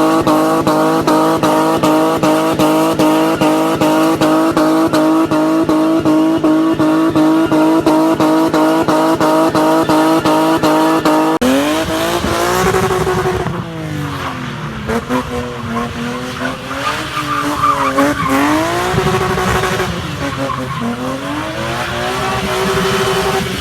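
BMW E30 engine and exhaust held at steady high revs with a fast, even pulsing for about 11 seconds. After a sudden cut, the engine's revs rise and fall again and again, with tyre squeal, as in drifting.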